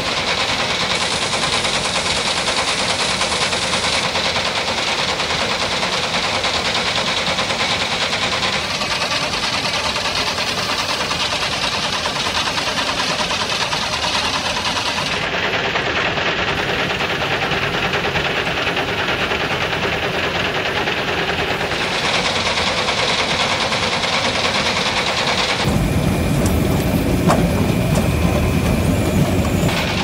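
Steady rattling machine noise, like small motors running, that changes character abruptly several times.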